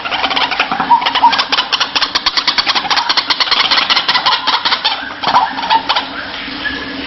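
White-breasted waterhen (ruak-ruak) calling: a fast run of harsh, rattling notes repeated many times a second, with a few short falling notes in the second half.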